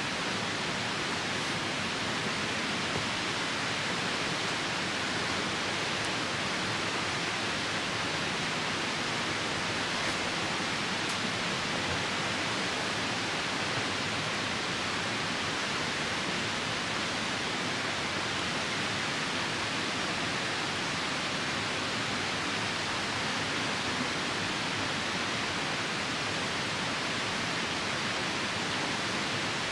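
Steady rushing of a nearby river mixed with rain, an even hiss that does not change, with a few faint ticks.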